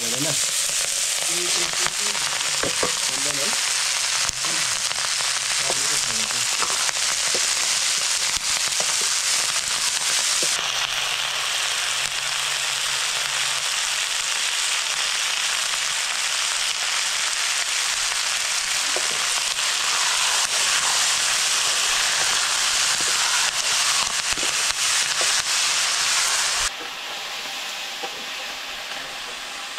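Food frying in hot oil in a pan, a steady dense sizzle with occasional small clicks. The sizzle drops suddenly to a quieter hiss near the end.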